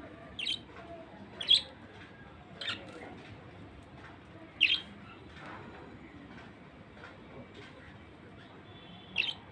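Budgerigar giving short, sharp high-pitched chirps: about five single calls at irregular intervals, the loudest about a second and a half in and just before the middle.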